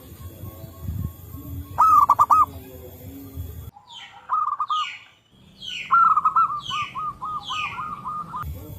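Zebra doves cooing: rapid rolling runs of coos, a short one about two seconds in and a longer run in the second half. Above them a second bird gives a series of descending whistled notes. The recording cuts abruptly several times, as if spliced.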